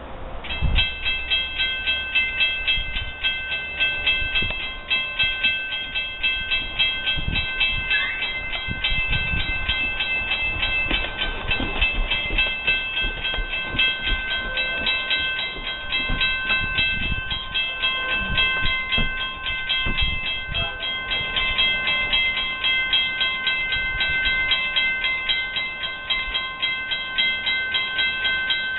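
Amtrak train passing close by, starting abruptly about half a second in, with uneven low thumps and rumble from its wheels. Over this runs a steady, rapidly pulsing high metallic ringing.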